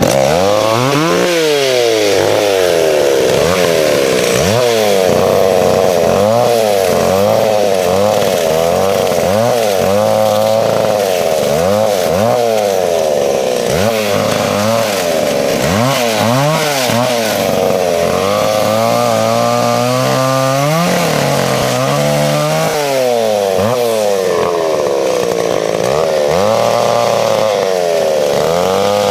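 Vintage McCulloch Pro Mac 650 two-stroke chainsaw cutting branches that are under tension. The engine revs up and drops back over and over, about once every second or two, as the throttle is feathered to keep the chain speed slow, and it holds steadier for a few seconds about two-thirds of the way through.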